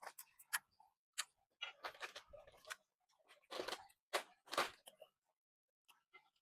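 A person biting and chewing crunchy fresh fruit close to the microphone: a run of irregular crisp crunches, loudest about three and a half to five seconds in.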